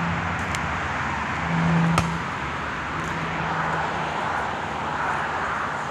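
Steady vehicle and street noise, with a low hum that comes and goes and a single sharp click about two seconds in.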